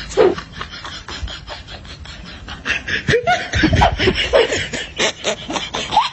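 Laughter, building to a louder run of laughs about two and a half seconds in, over a scatter of short clicks.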